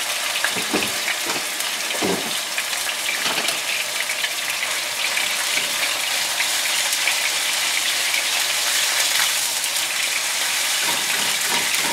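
Ground chicken sizzling in olive oil in a hot frying pan over fairly high heat, a steady frying hiss, with a spatula stirring and scraping the meat around the pan.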